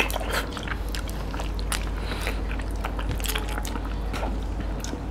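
Close-miked eating: chewing, smacking and crunching of fried fish with curry and rice eaten by hand, many small irregular clicks, over a faint steady low hum.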